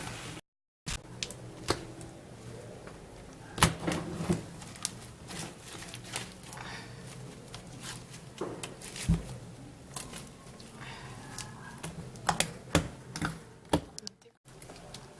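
Homemade slime full of styrofoam beads being squeezed and worked by hand, giving irregular sharp clicks and little pops.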